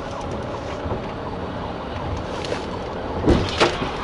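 Steady police vehicle noise with a police siren in the mix, and two sharp knocks close together near the end.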